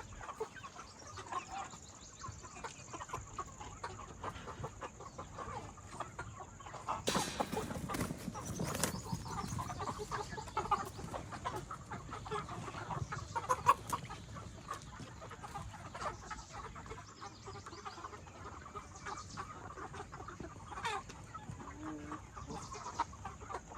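A flock of chickens in a poultry shed clucking and calling throughout, with many overlapping short calls. About seven seconds in there is a brief, louder rustle lasting a second or two.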